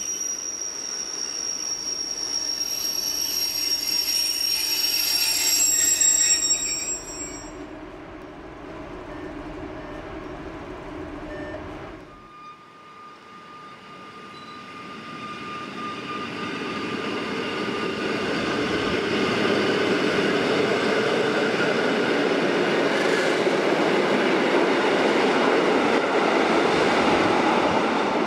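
Rhaetian Railway Ge 4/4 II electric locomotive and its coaches braking into a station, with a high wheel and brake squeal that dies away about seven seconds in. After a sudden cut about twelve seconds in, the train runs close past with a steady whine and a rumble of wheels on rail that grows louder over several seconds and then holds.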